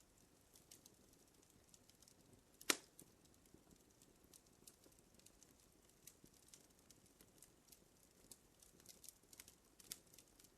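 Fire crackling faintly: scattered small pops and snaps, with one sharp, much louder pop a little under three seconds in.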